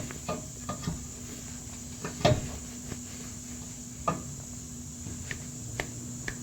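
Scattered metallic clinks and knocks of exhaust parts and hand tools being handled while a muffler is fitted under a car. The clearest knocks come about two seconds in and again about four seconds in, over a steady high-pitched background tone.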